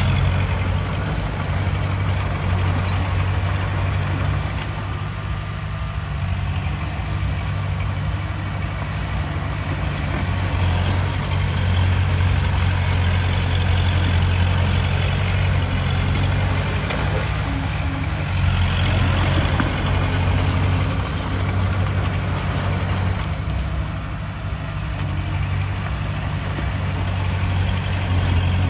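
Heavy diesel engine of earthmoving machinery running with a steady low drone, growing louder twice around the middle as it works under load.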